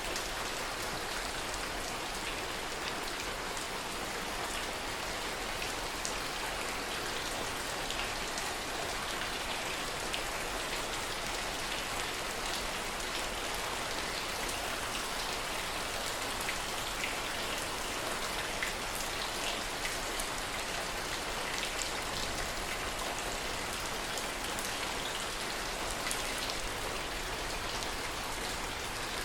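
Steady rain falling, a constant even hiss with many individual drops ticking on a hard surface. No thunder.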